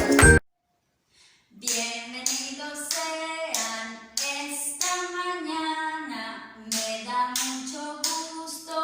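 A short musical jingle cuts off, and after a second's silence a high voice sings a tune to hand claps, the claps falling about once a second or faster.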